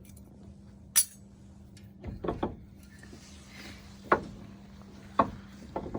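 Several sharp metallic knocks and clinks from tools and parts being handled during wheel bearing work: one loud knock about a second in, a quick pair just after two seconds, then single knocks near four and five seconds, over a faint steady hum.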